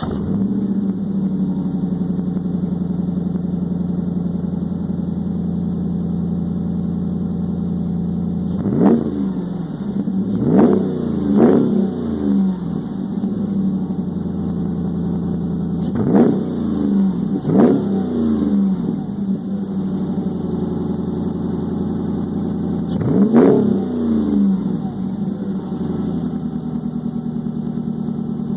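2015 Ram 1500's 5.7-litre Hemi V8 exhaust, running through a Carven TR muffler with no resonator and a Dr. Gas boom tube tip. It idles steadily, and is blipped six times in three pairs of quick revs that rise and drop back to idle.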